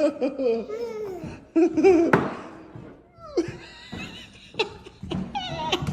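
Laughter in several bursts, each falling in pitch, with a short break between them.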